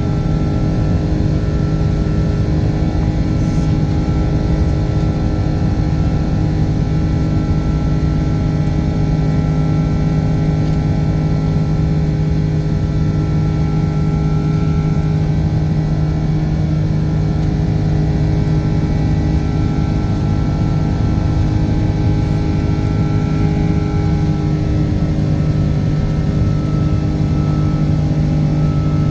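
Airbus A330-200's Rolls-Royce Trent 700 jet engines running at high departure thrust, heard inside the cabin: a steady loud roar with a deep hum and several held engine tones above it.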